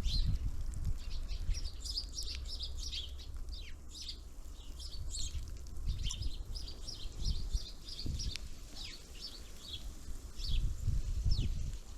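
Small songbirds at a feeder giving many short, high chirps and call notes, several overlapping, most dense in the middle of the stretch. Low thumps and rumble lie underneath.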